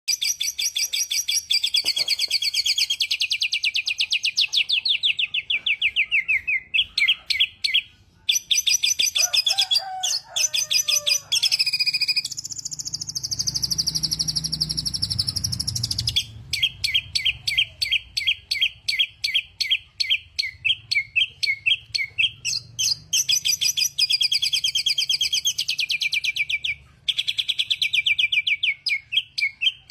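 A songbird singing continuously and loudly: fast trilled runs that fall in pitch, a held whistled note near the middle, then long series of sharp repeated chirps at about three a second.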